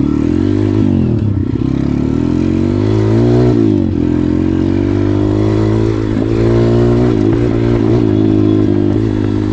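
A 140cc pit bike's single-cylinder engine running under way, its revs rising and falling with the throttle. The pitch drops sharply about a second in and again near four seconds, then climbs back.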